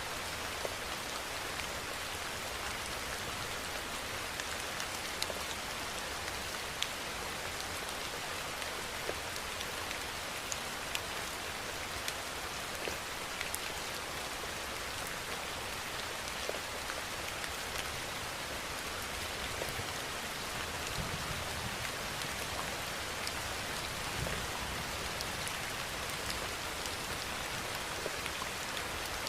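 Steady rainfall, an even hiss of rain with many scattered individual drops pattering sharply on a surface.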